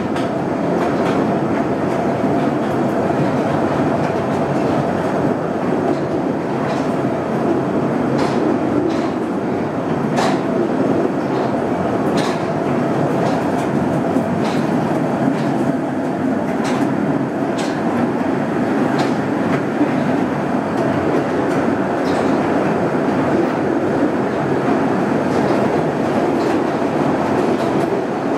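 Small open-carriage tunnel train running on its rails, heard from aboard: a steady rumble of wheels on track with a faint steady whine, and sharp clicks of the wheels crossing rail joints every second or two, echoing in the rock tunnel.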